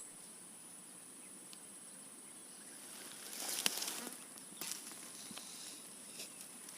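Steady high-pitched drone of insects. Rustling and a sharp click come about three and a half seconds in, with a few lighter clicks after.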